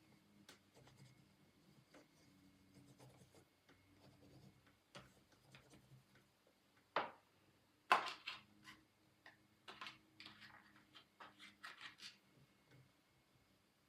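Art tools working on paper: faint rubbing and scratchy strokes, with two sharp taps about seven and eight seconds in and a run of quick strokes after them.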